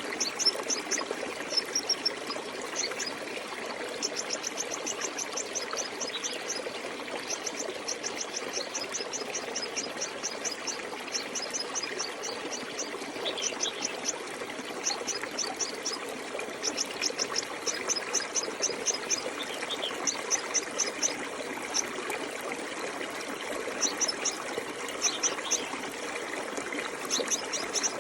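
A stream running steadily with a constant trickle. Over it, a high, fast chirping trill comes in short runs of a second or two throughout, with a few fainter chirps below it.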